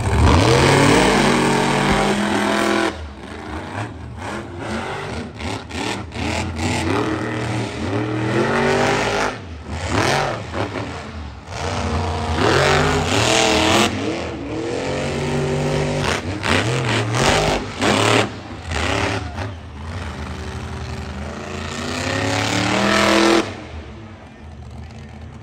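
Monster truck engine revving hard over and over, its pitch climbing and dropping, then falling away near the end.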